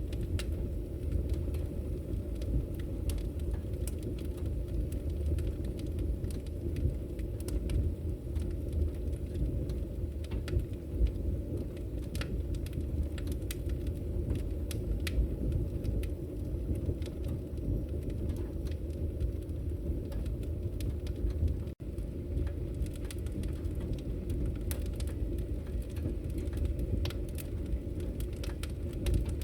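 Wood fire burning in a fireplace: a steady low rumble of the flames with many small, irregular crackles and pops. The sound drops out for an instant about three quarters of the way through.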